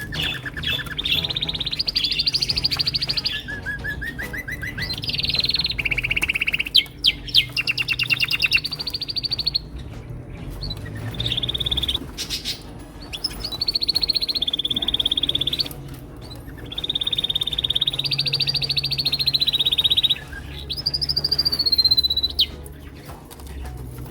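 Male domestic canaries singing: a continuous song of rapid trills, each phrase a string of fast repeated notes held for a second or two before switching to a new pitch, some phrases gliding up or down.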